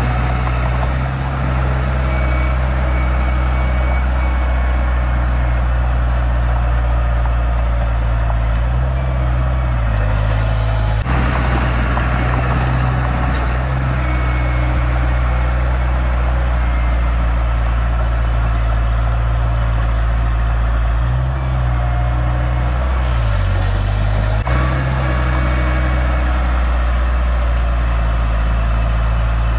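Diesel engine of heavy earthmoving equipment running steadily, a deep low drone whose note shifts briefly twice as the load changes.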